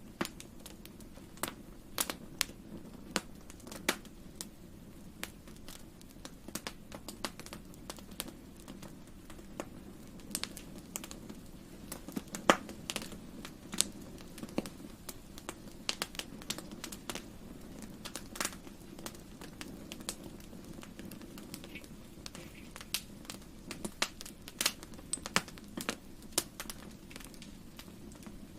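Wood fire in a fireplace crackling, with irregular sharp pops and snaps over a steady low rumble of the flames; the loudest pop comes about halfway through.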